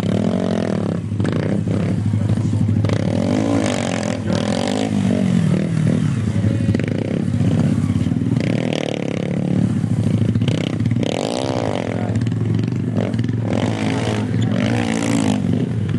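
Small pit-bike engine revved up and down again and again, the pitch rising and falling every couple of seconds over a steady low hum, with scattered clatter.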